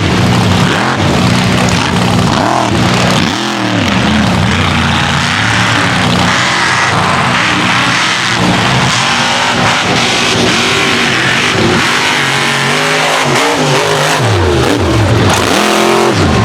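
Mega truck engine revving hard and easing off again and again, its pitch rising and falling.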